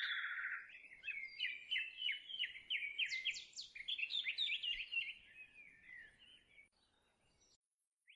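A bird calling: a rapid chattering run of short, sharp notes that goes on for about seven seconds and fades away near the end.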